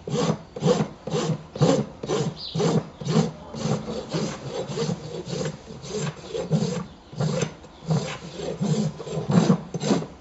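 Farrier's rasp being stroked back and forth over a cured Vettec Superfast epoxy hoof wall, in steady scraping strokes about three a second. The epoxy is being shaped like natural hoof wall.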